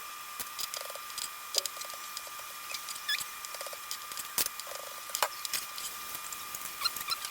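Light, irregular clicks and taps of kitchen work, like a knife and utensils on a cutting board and bowl while cooked chicken is cut into bite-size pieces, over a steady high-pitched electrical whine.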